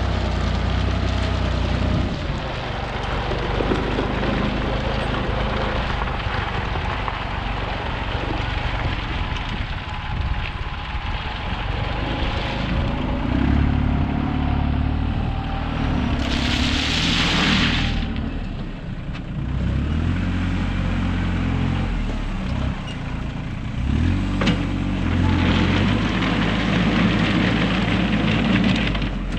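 Engine of a heavy machine working, its pitch rising and falling as it is throttled up and down, with a brief hiss about two-thirds of the way through.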